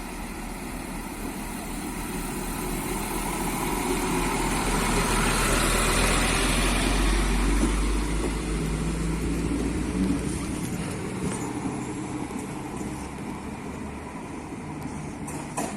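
Diesel train's engine running as it passes, growing steadily louder for about six seconds and then fading away.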